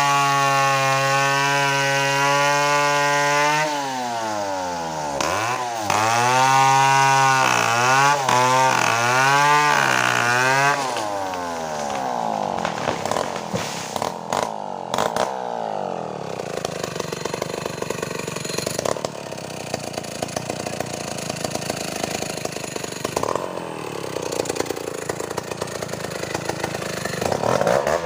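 Chainsaw running at full throttle, its pitch dipping and recovering several times as it loads up in the cut. About eleven seconds in, the clear engine note drops away into a lower, rougher running sound.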